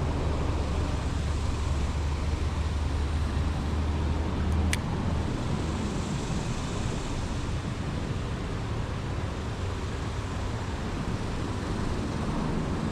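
Steady road traffic noise with a low rumble that fades out about five seconds in, and a single sharp click just before it ends.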